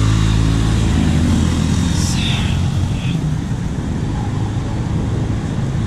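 A motor vehicle's engine running close by, its low hum fading out about a second and a half in, over a steady rush of wind and road noise.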